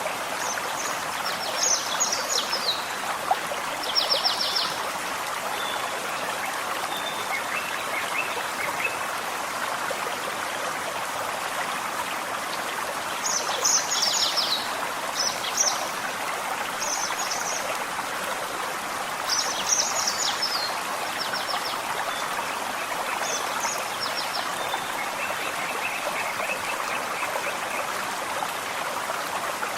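A small forest stream runs steadily over stones. Songbirds sing short, high phrases of rapid notes every few seconds over it, with a couple of slower buzzy note series in between.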